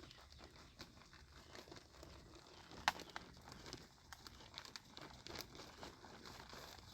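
Faint rustling and crinkling from repotting work, with scattered light clicks and one sharp click about three seconds in.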